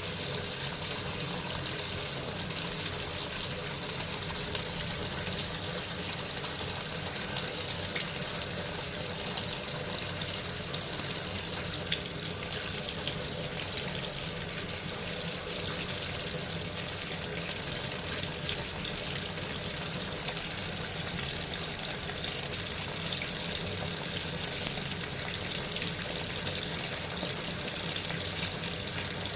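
Sharp washing machine filling with water: a steady rush of running water with a faint low hum underneath.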